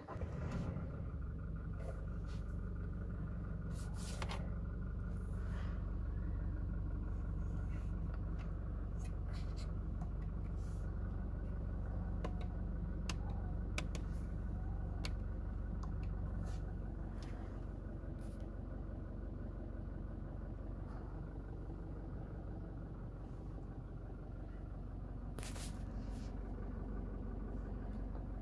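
Toyota Innova Crysta's engine idling steadily, heard from inside the cabin, just after it starts at the very beginning. A few short clicks and knocks sound over it.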